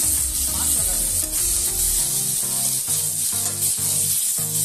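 Chopped onions and tomatoes sizzling in a hot steel kadai while a metal spatula stirs them, just after the tomatoes go in on the sautéed onions. Background music with a steady, stepping bass line comes in about two seconds in.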